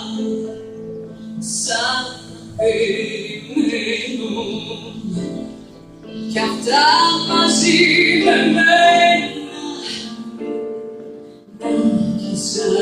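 Live orchestra music with singing. Long wavering vibrato notes and pitch glides come in phrases, with brief pauses between them.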